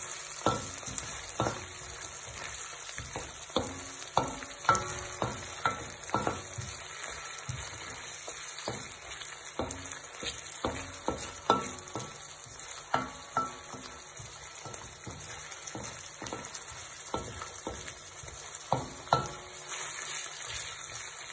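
Onion, carrot and frozen chopped bell pepper sizzling in oil in a pan, with a steady hiss. A utensil stirring them knocks against the pan many times at irregular intervals, each knock ringing briefly.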